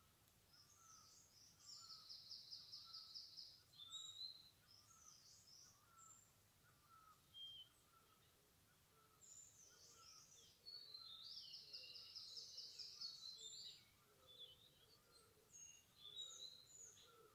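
Faint birdsong: several birds giving high chirps, and two rapid trills of about two seconds each. Under them a softer, lower call repeats about once a second, and a few low notes come in during the second half.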